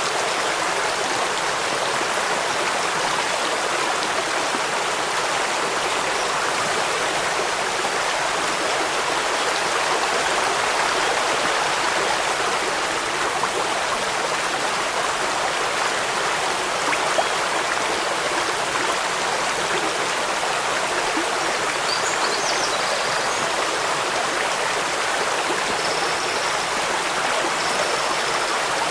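Stream running over rocks: a steady, unbroken rush of water.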